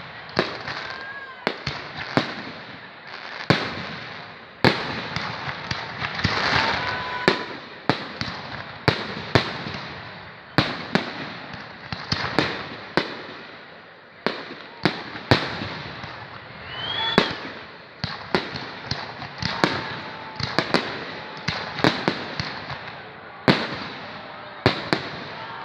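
Fireworks display: a long irregular run of sharp bangs from bursting shells, often one or two a second and sometimes several close together, with crackling between the bangs.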